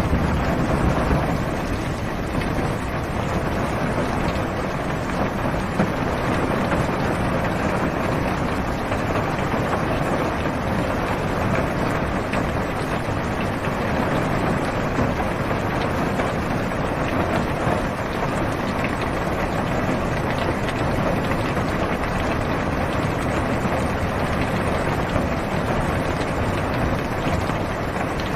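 Heavy rain falling on a car's roof and windows, heard from inside the cabin as a steady, even rush of noise.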